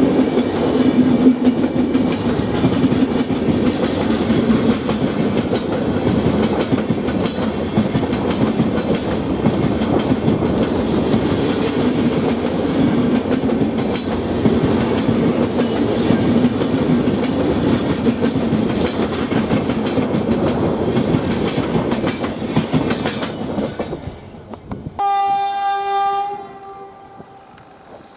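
Passenger coaches of a train rolling past at speed, a steady loud rumble and rush of steel wheels on rail that fades after about 24 seconds. Then an electric locomotive's horn sounds once, a single steady blast of about a second and a half.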